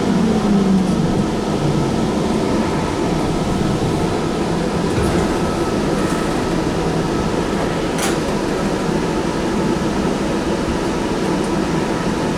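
Sound Transit Link light rail car heard from inside while running: a steady rumble of wheels on rails with a falling motor whine right at the start. A single sharp click sounds about eight seconds in.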